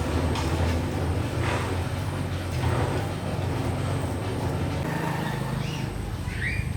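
A steady low engine hum that fades away about five seconds in, with short high calls near the end.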